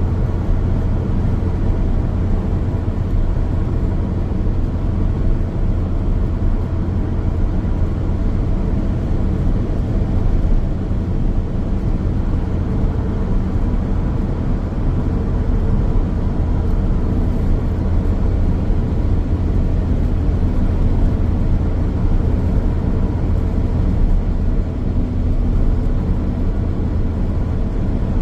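Car driving along a highway: a steady low rumble of tyres on the road surface and engine drone, with no change in pace.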